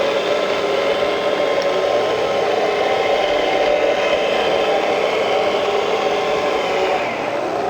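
Small electric motors and hydraulic pumps of RC construction models running, giving a steady whine of several tones that drift up and down in pitch, one dropping near the end.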